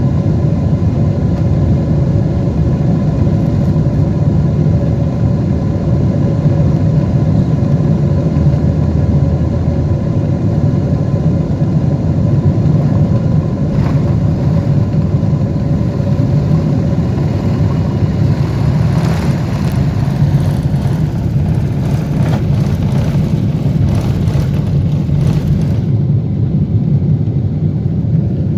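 Steady cabin noise of a Boeing 747 in flight or on its takeoff run: a deep, even rumble of engines and airflow with a faint steady hum above it. There are a few light rattles in the second half.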